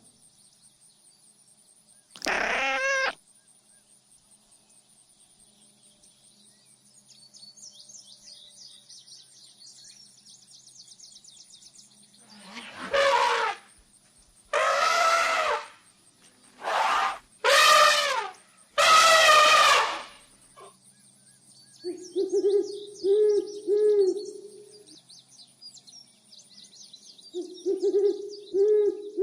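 A series of animal calls: a single call, faint high bird twittering, five loud drawn-out pitched calls, then two runs of short low repeated notes with bird chirps above them.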